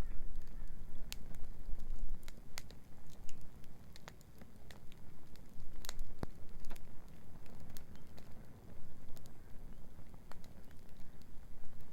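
Wood bonfire crackling, with irregular sharp pops and snaps, the loudest about six seconds in, over a steady low rumble.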